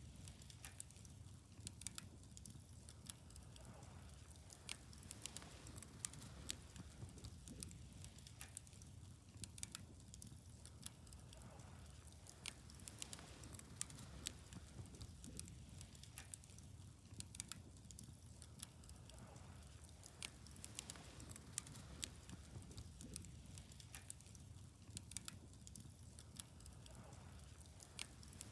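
Wood fire crackling, with frequent irregular sharp pops and snaps over a faint low rumble.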